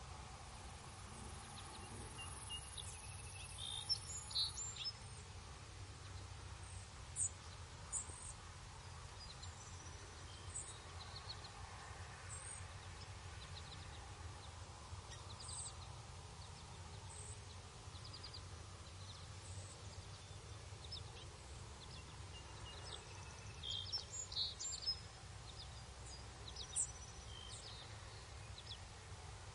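Scattered short bird chirps, bunched about four seconds in and again near the end, over a steady low background rumble.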